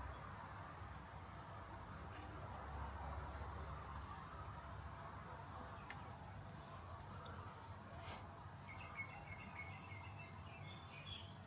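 Faint outdoor ambience: small birds chirping in short high trills, with insect-like chirping, over a low steady rumble.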